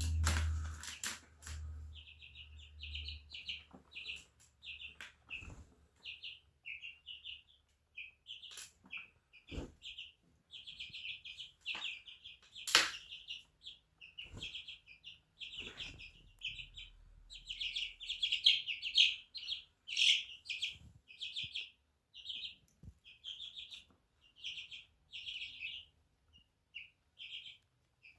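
Young chicks peeping: a steady run of short, high-pitched peeps, denser and louder around the middle and again around 18–20 s. A few sharp knocks cut through, the loudest about halfway.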